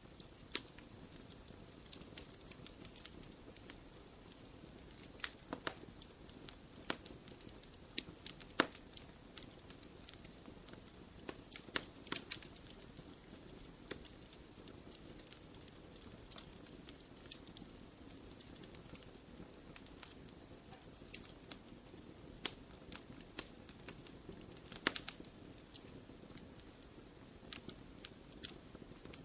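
Wood fire burning in a fireplace, a steady soft hiss with irregular crackles and sharp pops, a few louder ones around 8 to 12 seconds and near 25 seconds.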